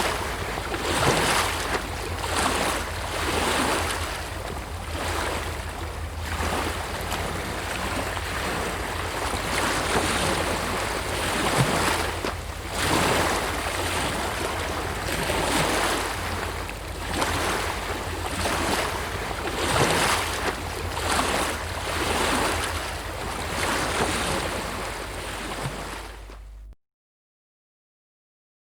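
Sea waves breaking and washing ashore as a steady surf, swelling and ebbing in repeated surges, with a low rumble underneath. It cuts off abruptly into silence shortly before the end.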